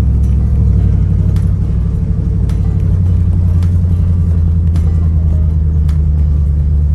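Truck engine running steadily at low speed, a low drone that shifts slightly in pitch about a second in, with a faint click about once a second.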